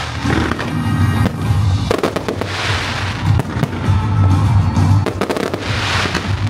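Firecrackers and fireworks going off in a dense, continuous crackle with swelling bursts, over loud music with a heavy bass.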